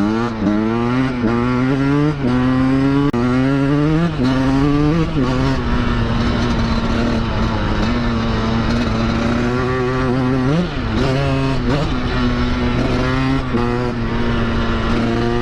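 Two-stroke dirt bike engine accelerating through the gears, its pitch climbing in each gear and dropping at each shift four times. It then holds a steady cruise, with a quick drop and rise in revs about ten seconds in, over wind noise on the microphone.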